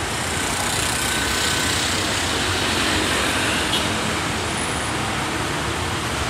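Steady rumble of a diesel-hauled passenger train approaching, blended with urban traffic noise.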